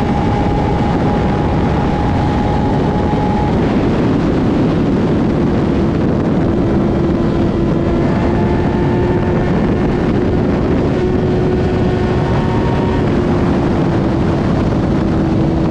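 2008 Kawasaki ZX-10R's inline-four engine pulling hard at steady high revs at near top speed, almost buried under a heavy, even rush of wind noise. The engine note shifts slightly a few seconds in, then holds steady again.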